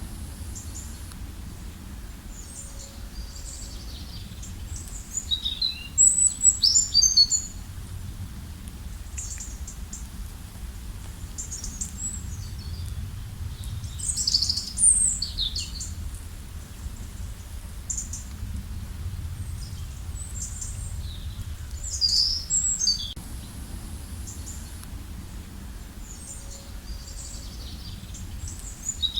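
Several songbirds chirping and trilling in short bursts of high, quickly gliding notes, with pauses between the bursts, over a steady low rumble.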